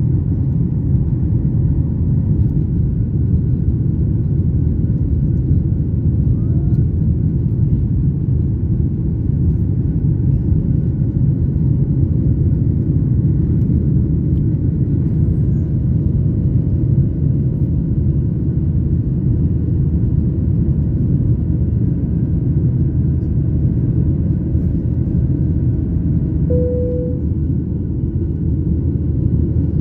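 Steady low rumble of an airliner cabin: engine and airflow noise, unbroken throughout, with a brief higher tone near the end.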